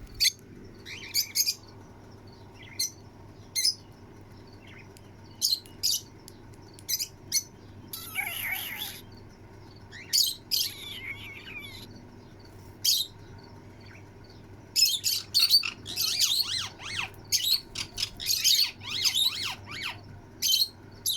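Small pet parrots (cockatiels, budgies and lovebirds) chirping and squawking. Short sharp chirps come every second or two, with a longer squawk about eight seconds in. From about fifteen seconds in, the calls turn into busy overlapping chatter.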